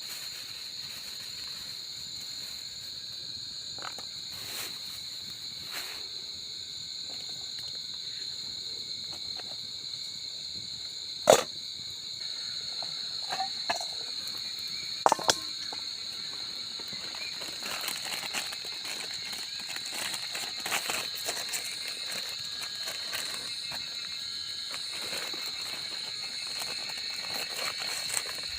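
Insects chirring in a steady, high, continuous trill, with scattered sharp clicks and knocks over it, the loudest about eleven seconds in.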